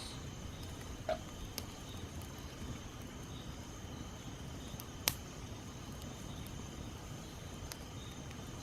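A small wood campfire crackling with a handful of sharp snaps, the loudest about five seconds in, over a faint, steady high trilling of insects.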